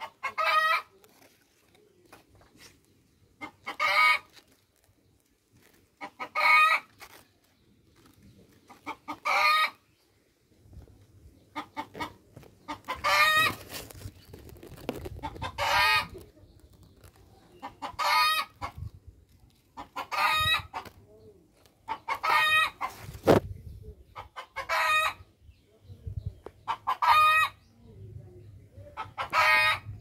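A bird's loud call, each under a second long, repeated about every two to three seconds. From about ten seconds in, a low rustling from the phone being handled among leaves lies under the calls.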